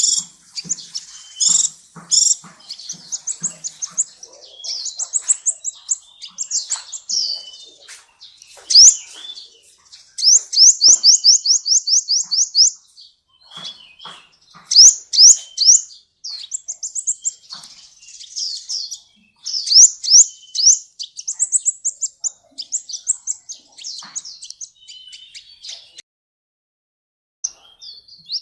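Sunbird singing: fast, high-pitched trills and sharp chirps in quick, shifting phrases, one run of rapid repeated notes about ten a second, with a short break near the end.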